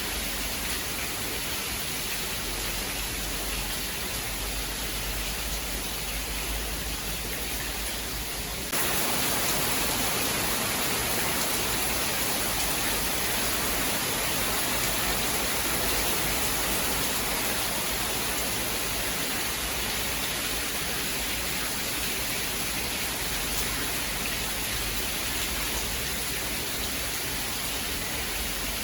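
Steady rain falling, an even hiss. About nine seconds in it abruptly changes to a louder, brighter hiss with less low rumble.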